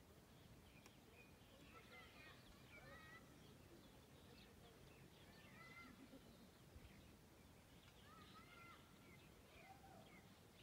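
Very faint birdsong: short chirping whistles in small clusters, a couple of seconds in and again from about eight seconds, over a low steady background noise.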